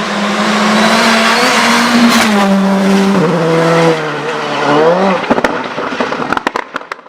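Two-wheel-drive rally car engine running hard at high revs, its note stepping down in pitch twice. About five seconds in the engine sound stops, and a run of sharp pops and crackles follows.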